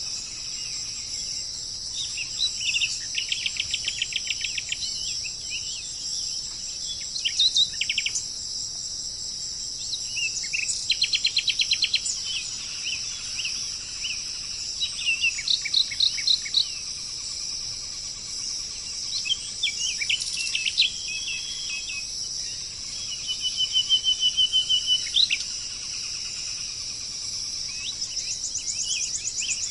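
Birds singing in short phrases of fast repeated notes, one phrase every few seconds, over a steady high drone of insects or crickets.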